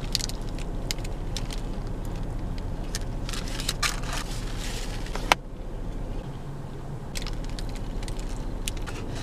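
A person biting into and chewing a crispy chicken sandwich with crunchy bacon, with irregular crunches and wet clicks and the paper wrapper crinkling in her hands, over a steady low hum. A sharp click comes about five seconds in, after which the chewing is quieter.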